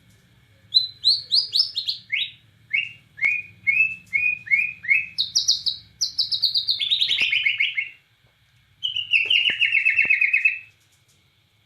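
White-rumped shama of the Bornean race (murai batu Borneo) singing vigorously. It opens with a run of short, down-slurred whistled notes, then gives a fast rattling trill, and after a brief pause about nine seconds in, a second trill.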